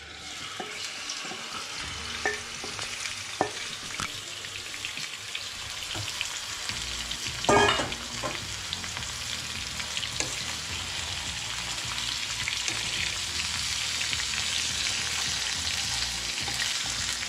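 Marinated prawns frying in hot ghee in a non-stick pan, a steady sizzle that starts and grows louder as the prawns' moisture meets the hot fat. A wooden spatula clicks against the pan a few times early on as the prawns are stirred, and there is a brief exclamation about halfway through.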